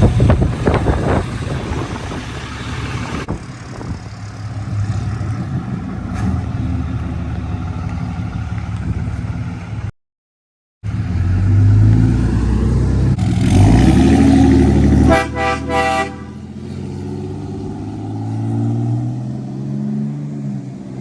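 A car engine running, its pitch rising as it revs, then a quick run of short car-horn toots about fifteen seconds in.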